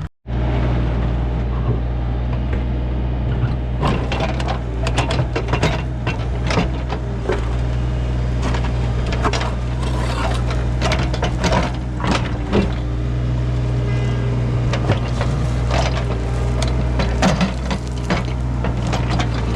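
Excavator's diesel engine running steadily while the bucket digs. From about four seconds in come repeated knocks and scrapes as it works through fill full of buried trash and debris.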